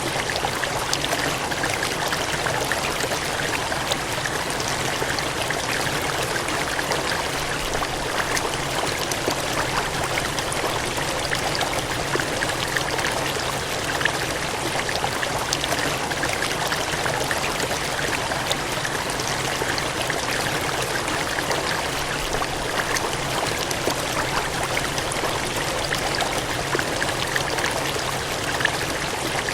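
Cascading, gushing water running steadily: an even rushing hiss with fine splashing detail throughout.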